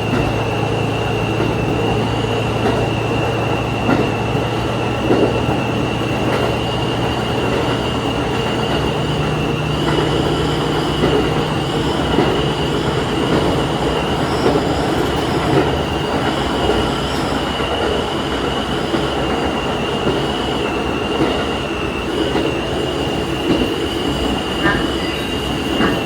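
Diesel railcar running along the line, heard from the cab: a steady engine drone that steps up in pitch about nine seconds in, over wheel and track rumble with a steady high whine and scattered clicks from the rail.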